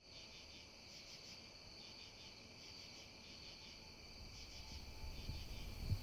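Faint chorus of crickets chirping steadily, several pitches at once, over a low background rumble that grows louder near the end.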